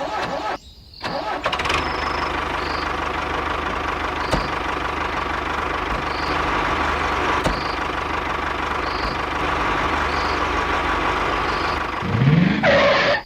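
A small motor running steadily, with a rising whine near the end.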